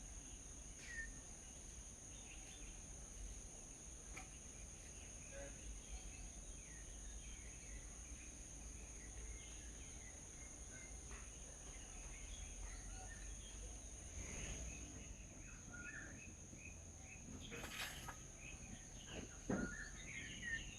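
Small birds chirping in many short, high calls over a steady high-pitched whine, with a few sharp knocks near the end.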